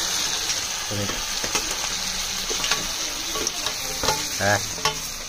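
Crabs frying in hot oil in a metal kadhai: a steady sizzle, with short clicks and scrapes as they are pushed in and stirred with a ladle.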